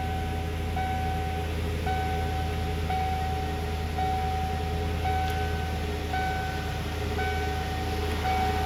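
1994 Ford F-150's engine running at fast idle just after a cold start, steady and low. Over it a high tone sounds in short stretches, breaking off and starting again about once a second.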